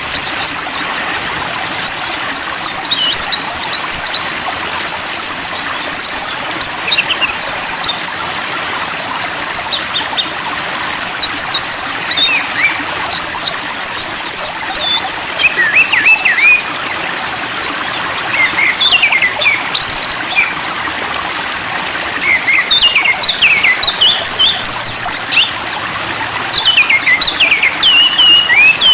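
Songbird calls: clusters of quick, high chirps and whistled notes, over a steady rush of running water.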